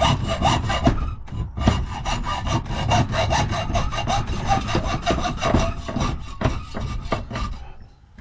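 Hand hacksaw cutting through a metal key blank clamped in a vise, in rapid back-and-forth strokes. The strokes pause briefly about a second in, then carry on until just before the end.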